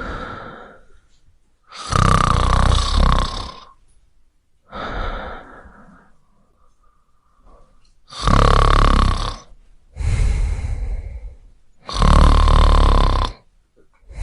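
A person snoring: three long, loud snores on the breath in, about four seconds apart. A softer breath out follows each of the first two.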